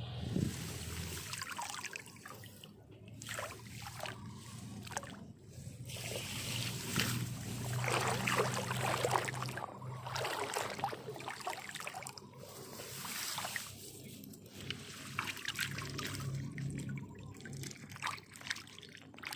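Water trickling and splashing in irregular spells with short pauses.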